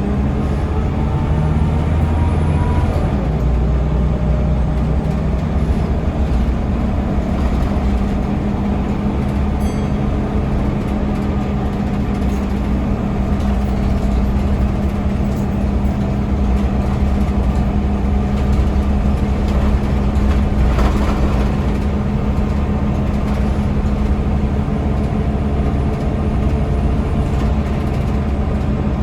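Scania L94UB bus's Scania DC9 nine-litre diesel engine running steadily on the road, with a change in engine note about three seconds in.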